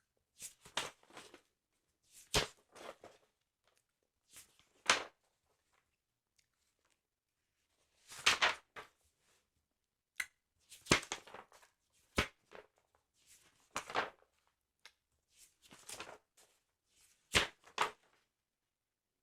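Paper handling on a sticker album: a dozen or so short crinkling, rustling bursts, some starting with a sharp snap, with silent gaps between them.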